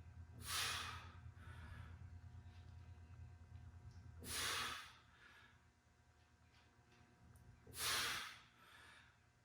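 A man breathing out hard three times, about three and a half seconds apart, with the effort of each rep of weighted standing oblique crunches. A low steady hum sits underneath and drops away about halfway through.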